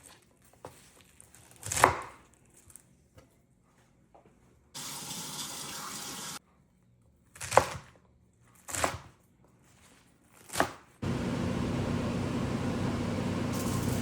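Kitchen tap running in two spells: briefly in the middle, then on steadily near the end. Between them come a few single sharp knife strikes on a cutting board.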